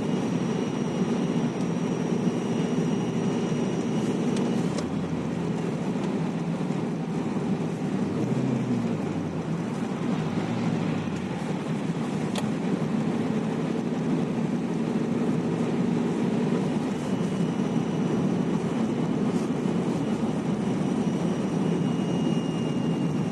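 Opel Zafira A's 1.8-litre Z18XE four-cylinder petrol engine running, with a thin high whistle that sounds for the first few seconds, fades out, and comes back near the end; in between the engine note rises and falls a couple of times. The whistle is an unexplained fault the owner is trying to trace.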